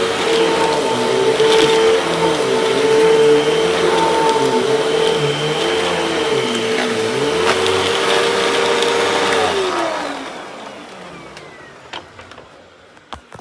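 Hoover vacuum cleaner running with a steady motor whine, its lower hum rising and falling in pitch again and again; about nine and a half seconds in it is switched off and the motor winds down and fades, followed by a few light clicks.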